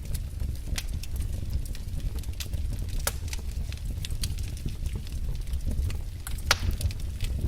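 Wood fire crackling in a fireplace: scattered sharp snaps and pops over a low steady rumble of the flames, with a louder pop about three seconds in and another about six and a half seconds in.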